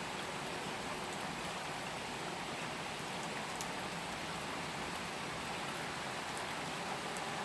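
Steady rain falling and pattering on surfaces, with a few faint drop ticks.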